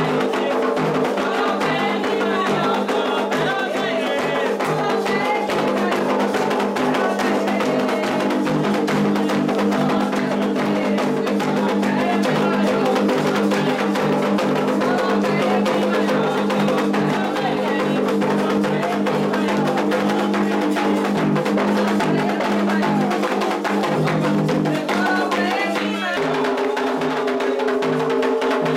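Candomblé ritual drumming: atabaque hand drums and an agogô bell playing a quick, steady rhythm for Xangô, with singing at times. The pattern shifts about 26 seconds in.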